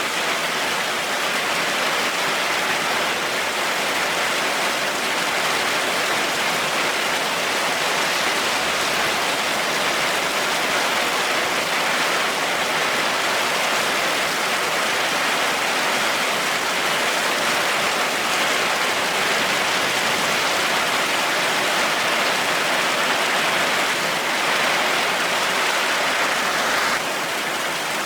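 Heavy rain falling in a steady, dense hiss, with no thunder; the level drops a little about a second before the end.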